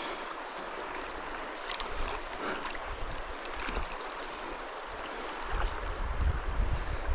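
Small mountain stream running steadily, a continuous rush of water. A few faint clicks, and a low rumble on the microphone builds over the last second or two.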